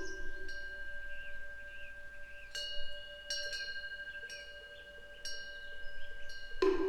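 Korean temple eave wind bell (pungyeong) ringing: its clapper strikes the bell a few times, each strike leaving a long sustained ring of several steady tones. Faint bird chirps sound in between, and a louder, lower-pitched strike comes in just before the end.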